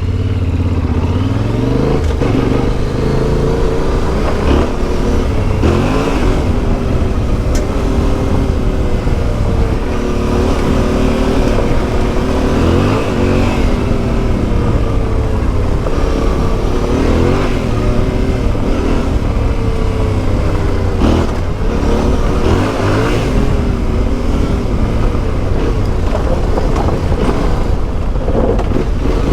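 Yamaha Ténéré 700's CP2 689 cc parallel-twin engine through an Akrapovic exhaust, heard while riding. Its pitch rises and falls again and again as the rider accelerates, shifts gear and rolls off.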